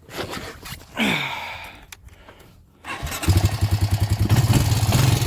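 An engine is started about three seconds in and keeps running with a fast, even beat.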